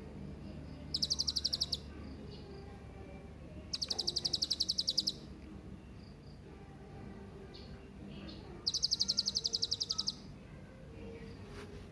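Hanging parrot (serindit) calling: three shrill bursts of rapidly repeated high notes, about ten a second, each lasting about a second, with faint other bird chirps between them.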